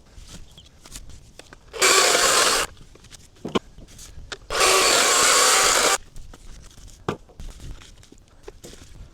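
Dewalt battery chainsaw cutting through hard eucalyptus logs in two short bursts, about two seconds in and again about four and a half seconds in, the motor going quiet between cuts. In the pauses there are a few light knocks of wood.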